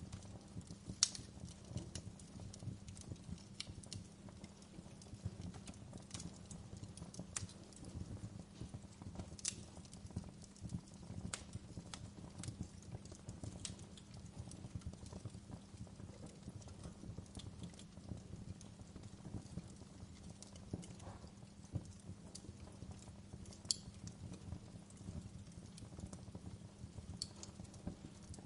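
Wood fire crackling, with irregular sharp pops, the loudest about a second in, over a low steady rumble.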